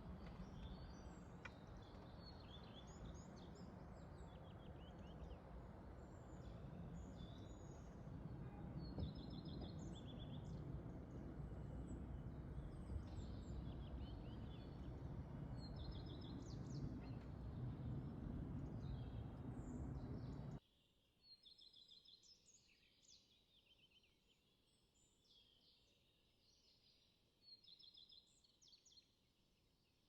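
Small birds singing, with many short high chirps and trills repeating throughout. Under them a steady low rumbling noise runs for the first two-thirds and cuts off abruptly, leaving only the birdsong.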